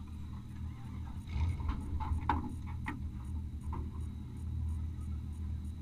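Off-road race vehicle's engine running with a steady low rumble, with a few sharp knocks and rattles about one to four seconds in, typical of the vehicle jolting over rough ground.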